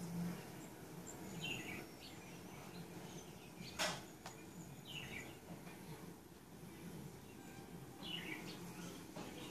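A bird chirping: short falling chirps repeated every few seconds. A single sharp click about four seconds in.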